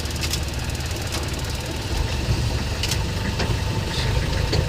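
A vehicle engine idling with a steady low rumble, with a few faint clicks.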